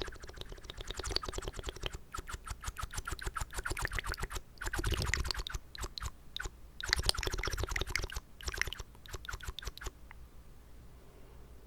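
Close-miked wet mouth sounds: rapid clicking and smacking of water and saliva in the mouth, in quick runs with short pauses, stopping about ten seconds in.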